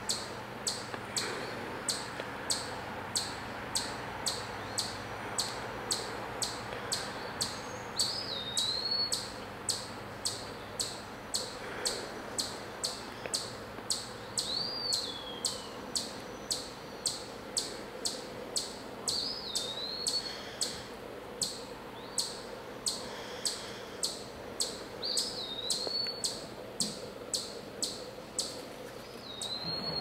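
Wild birds calling in woodland: short, high, hooked call notes every few seconds over a steady high ticking about twice a second.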